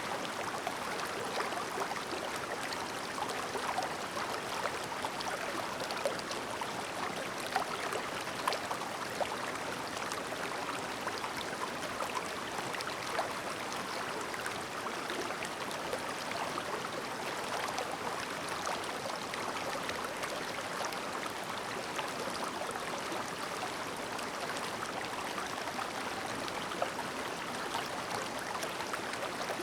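Clear shallow river babbling over stones, a steady rush of running water with small splashes and gurgles throughout.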